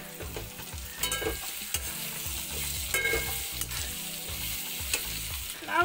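Soya chunks and fried potatoes sizzling in a metal kadai of onion-tomato masala, stirred with a flat metal spatula that scrapes and clicks against the pan several times.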